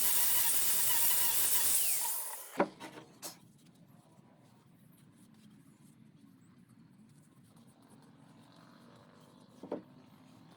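A power tool running with a steady high whine is switched off about two seconds in and winds down. Two knocks follow, then a quiet stretch with one more knock near the end.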